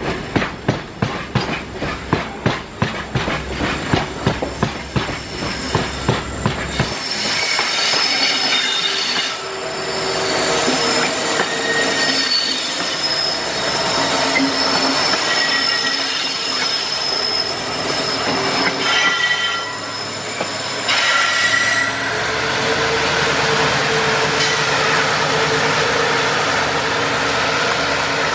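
BOXNHL freight wagons rolling past, their wheels knocking over the rail joints in a regular clickety-clack of about two beats a second. About seven seconds in, the knocking gives way to a steady high-pitched squeal of the wagon wheels grinding against the rails, which runs on continuously.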